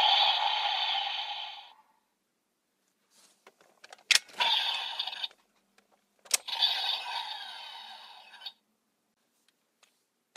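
Sound-effect toy being worked: two sharp clicks of its mechanism, each followed by a short electronic sound from its small speaker that fades away, the second one longer.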